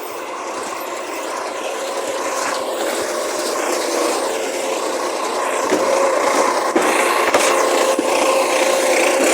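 Side-loading recycling truck running with a steady whine, getting slowly louder, with a couple of sharp knocks about six and seven seconds in.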